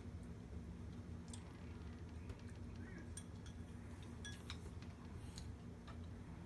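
Eating utensils clinking lightly against dishes, a few small scattered clinks, over a steady low hum.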